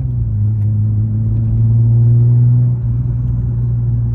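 Infiniti G37's V6 engine running steadily while the car is driven. About three seconds in, the engine note drops slightly as the driver eases off.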